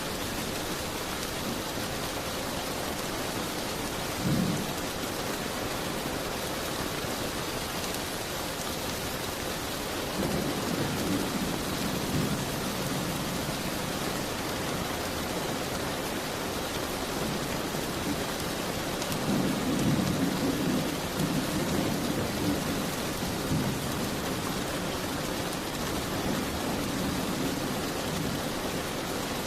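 Steady rain falling and pattering against a window, with low rumbles: a brief one about four seconds in, then two longer ones of a few seconds each partway through and later on.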